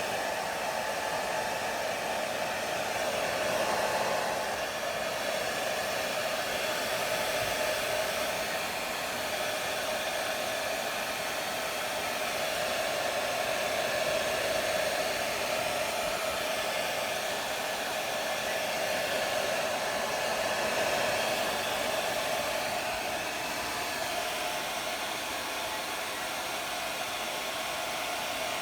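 Hair dryer running steadily, its even whoosh swelling a little now and then.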